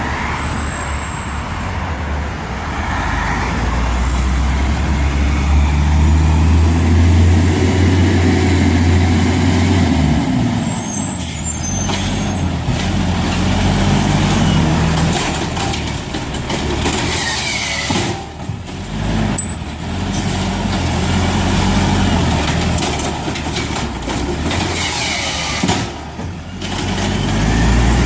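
A refuse truck's engine running and working up and down in pitch, with short high air-brake hisses or squeals about eleven seconds in and again near twenty seconds.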